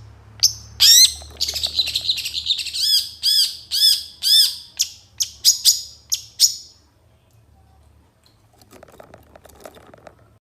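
Long-tailed shrike (pentet) singing: sharp chirps, then a run of repeated arched whistled notes at about two a second, all stopping about seven seconds in. A faint lower chatter follows near the end.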